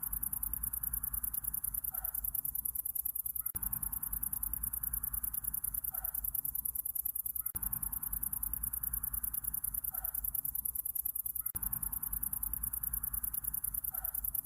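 Night insects, crickets, chirping in a dense, very high, rapidly pulsing trill, over a low rumble. A short, faint call recurs about every four seconds, and the ambience repeats as a loop.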